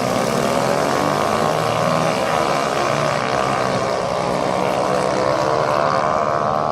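Several racing motorcycle engines running hard together, their overlapping engine notes rising and falling as the bikes rev and pass.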